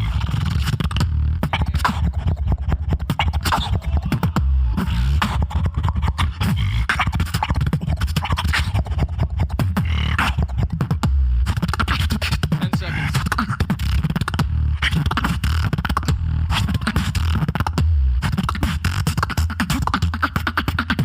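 Solo human beatboxing: a dense, unbroken stream of rapid percussive mouth clicks and snares over a steady heavy vocal bass.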